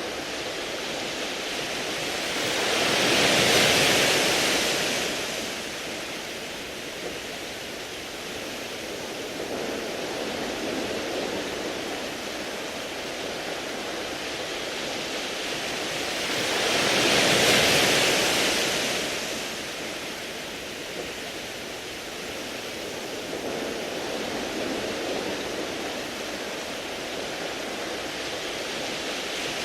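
Waves washing onto a beach of smooth round pebbles: a steady hiss of surf that swells twice into a louder wave surge, about 14 seconds apart, with another wave building at the end.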